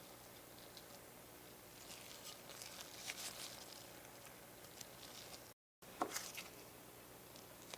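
Faint handling noise from work on a small model truck: light clicks, taps and scratchy rubbing, busiest in the middle, broken by a brief dead-silent cut, then a sharper tap just after it.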